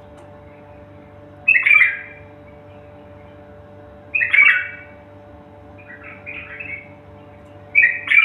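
A bird calling in short bursts, each a quick pair of notes, about every two to three seconds, with a softer run of notes between the third and fourth calls. A faint steady hum runs underneath.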